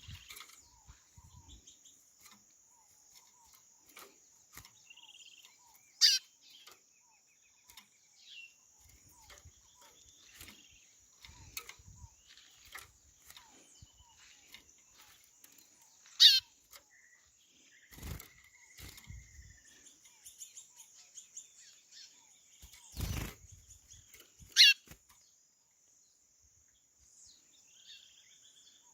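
Wild white-bellied seedeaters (chorão) calling: three loud, sharp downward-sweeping call notes spaced several seconds apart, amid fainter chirps and short trills, over a steady high hiss. Two dull thumps come about two-thirds of the way through.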